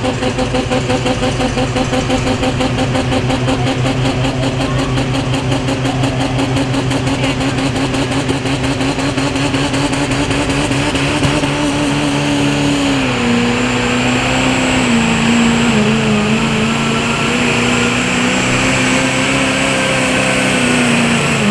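Super stock diesel pulling truck running at full throttle under load, with a high turbo whistle over the engine. The engine's pitch holds steady for a while, then drops in steps and sags as the load builds. It starts to fall away right at the end.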